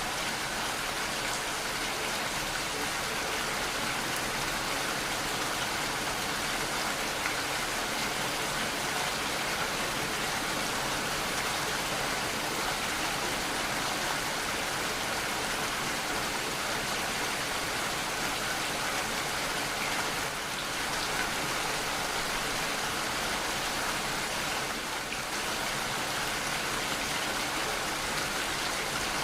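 Steady rainfall, an even hiss of rain hitting a surface, with no thunder.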